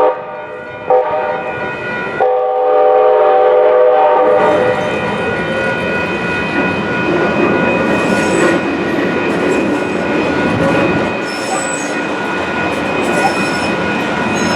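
Train horn sounding a multi-note chord, the end of one blast right at the start and a second long blast about two seconds in, then the train passing over the grade crossing with steady wheel rumble and clatter on the rails.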